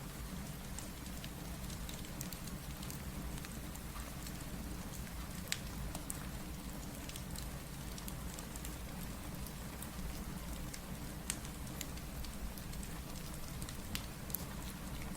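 Steady rain mixed with a crackling fireplace: a constant low rushing hiss with scattered sharp pops and clicks.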